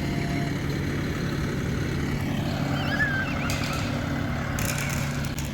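An engine running steadily with a constant low hum, with a few faint distant voices calling.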